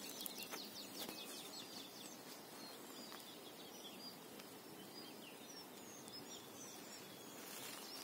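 Faint songbirds chirping and twittering, several calling at once with short high notes scattered throughout, over a soft steady hiss.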